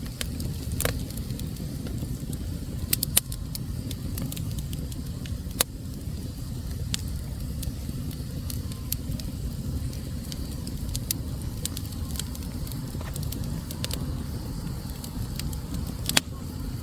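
Wood fire burning in a fireplace: a steady low rumble of flames with scattered sharp crackles and pops, a few louder ones around three seconds in, midway and near the end.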